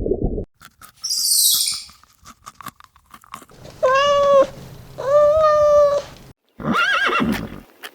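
A run of separate animal calls: a brief high noisy burst, then two long, steady, high-pitched calls, then a shorter call that rises and falls.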